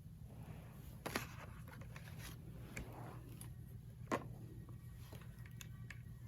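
Faint, scattered small clicks and taps of a small watch battery being handled and tested for voltage, with the sharpest click about four seconds in, over a steady low hum.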